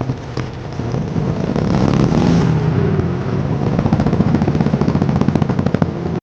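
Motorcycle engine running under throttle, its exhaust giving a rapid stream of firing pulses that grows louder a second or two in.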